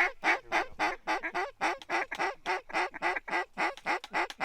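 Mallard-style quacking in a rapid, evenly paced string, about five short quacks a second, loud and close.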